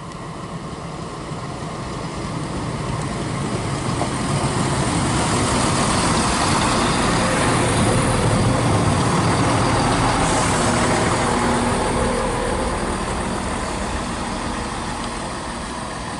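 Class 170 Turbostar diesel multiple unit arriving at the platform: engine and wheel noise swell to a peak about halfway through, with steady engine tones, then fade as it draws past and slows.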